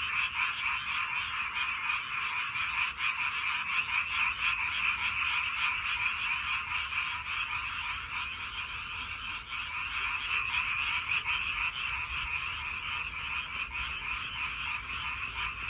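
A chorus of many frogs giving mating calls, a dense, steady mass of rapid pulsing croaks.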